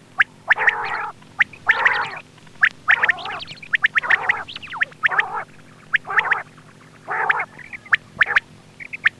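Quail calling over and over, a short raspy call about once a second with sharp clicking notes in between, from a recording played as a hunting lure. A faint steady hum runs underneath.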